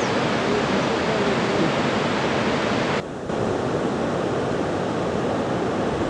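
Iguazu Falls: a steady, even rush of falling water, dipping briefly in level about halfway through.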